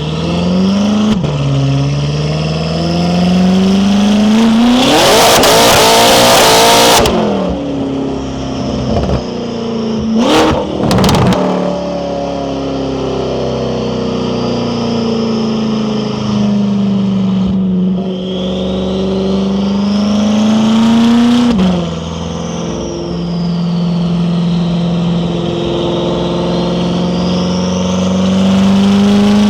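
Stage 2-tuned BMW F10 M5 Competition's twin-turbo V8 running through an Akrapovič exhaust while driving: the engine note climbs under throttle and drops sharply at gear changes, with a faint turbo whistle rising and falling above it. About five seconds in there is a loud rushing surge lasting about two seconds, and around ten seconds in a few sharp cracks.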